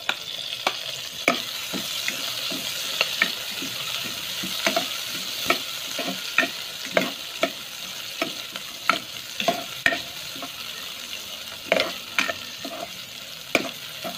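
Garlic, onion and freshly added ginger sizzling in hot oil in a steel cooking pot, with a steady hiss, while a spatula stirs them, clinking and scraping against the pot about once or twice a second.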